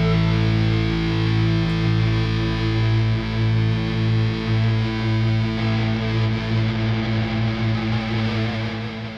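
Rock song ending: a distorted electric guitar chord rings out with a pulsing low note, slowly fading away.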